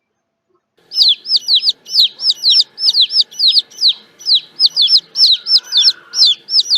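Baby chicks peeping: a rapid run of short, high, falling peeps, about four a second and often in pairs, starting about a second in.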